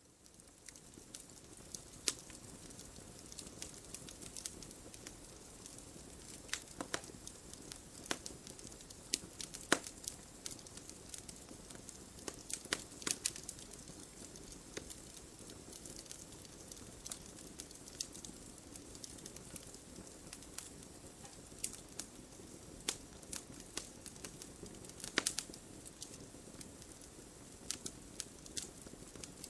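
Logs burning in a fireplace: a steady soft hiss of flames with irregular crackles and pops from the wood, and a handful of louder snaps scattered through.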